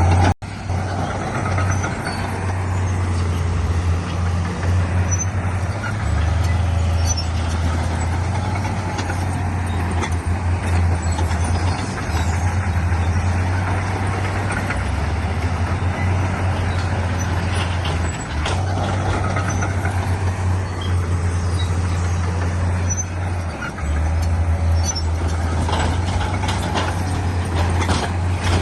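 Diesel engines of heavy earthmoving machinery, a bulldozer and dump trucks, running under load: a deep, continuous drone whose pitch shifts every few seconds, with mechanical clatter above it. The sound cuts out briefly just after the start.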